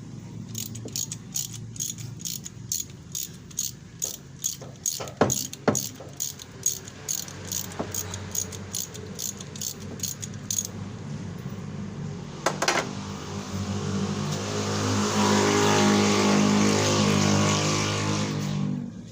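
A steady low motor hum with sharp, regular ticking about twice a second, then a louder mechanical running sound that builds up over the second half and cuts off near the end.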